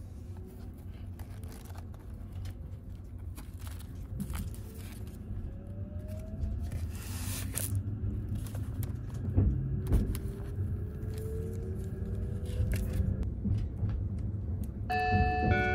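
Electric limited express train running, heard inside the passenger car: a steady low rumble with faint rising motor whines. A few light knocks come from a wooden bento box and its lid being handled, the loudest a little past the middle.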